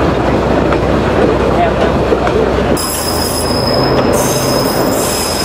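Old locomotive and its single carriage running along the track: a steady rumble of engine and wheels on rail, with a high, steady wheel squeal joining about halfway through.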